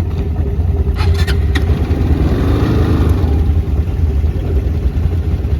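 Quad bike engine running steadily and loud.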